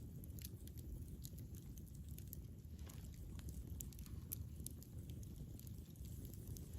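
Campfire burning with a low steady rumble and scattered sharp crackles and pops of burning wood.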